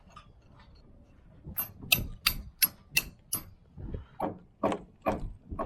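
Hammer blows knocking bricks and mortar off the top of a brick wall: about six sharp, ringing strikes at roughly three a second, then several duller knocks.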